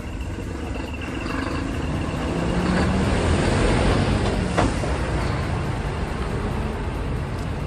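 Large truck's engine running as it drives past, growing louder to about four seconds in and then easing off, with one sharp click partway through.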